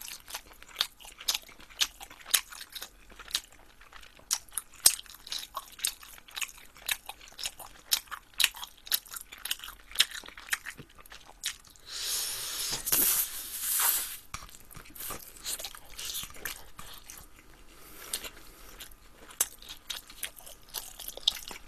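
Close-miked chewing and biting of glazed fried chicken and sausage–rice cake skewers (sotteok), with many sharp crunchy clicks. About twelve seconds in, a louder hissing noise lasts for about two seconds.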